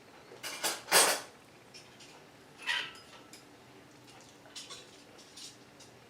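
Disposable plastic spoons being handled: a few short, light clatters and rustles, the loudest about a second in, with smaller ones after.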